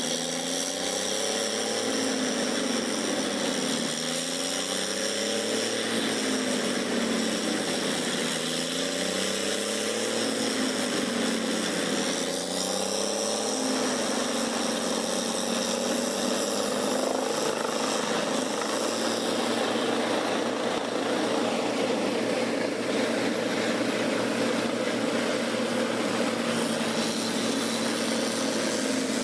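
Large wood grinder's diesel engine running hard while chewing up branches and trunks. For about the first half its pitch keeps dipping and recovering as it takes load, then it runs at a steadier speed.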